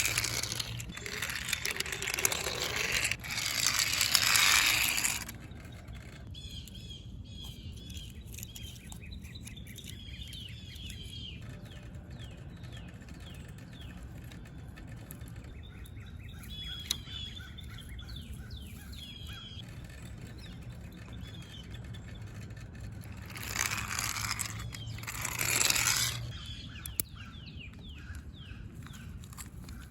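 Small birds chirping and tweeting in the background over a steady low hum, with two louder stretches of rushing noise in the first few seconds and again a little after the middle of the second half.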